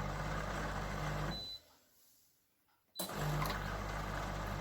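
Steady electrical hum with a low mains-like buzz and hiss. It drops out to near silence for about a second and a half in the middle, then comes back with a click.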